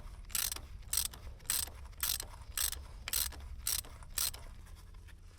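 Ratchet wrench being worked back and forth on a bolt, a short burst of ratchet clicking about twice a second, nine or so strokes, stopping a little over four seconds in.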